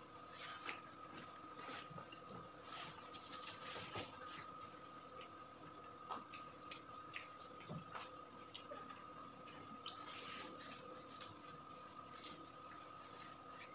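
Faint chewing and small mouth and hand sounds of two people eating pizza slices, with scattered soft clicks, over a faint steady high-pitched hum.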